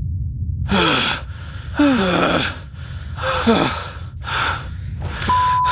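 A person letting out about five loud, breathy gasping sighs, each falling in pitch, acting out exhaustion, over a steady low rumble. A short steady beep comes near the end.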